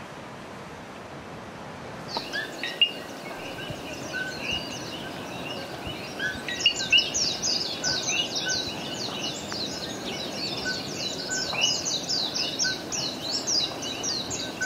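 Birds chirping: many short, high, quick notes that start about two seconds in and grow into a dense chorus after about six seconds, over a steady background hiss.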